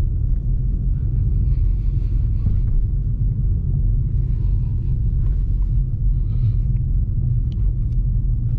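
Steady low rumble heard from inside a Dodge Scat Pack cruising slowly on a snow-covered road: its 6.4-litre HEMI V8 running under light throttle together with tyre and road noise.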